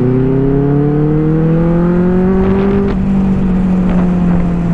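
Benelli 600i inline-four motorcycle engine accelerating in gear, its pitch climbing steadily, then levelling off to a steady run about three seconds in.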